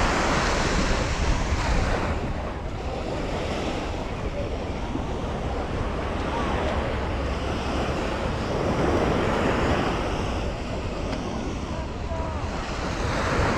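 Sea waves breaking and washing up a beach. The surf swells and eases in surges, loudest at the start, again in the middle and near the end. Wind rumbles on the microphone underneath.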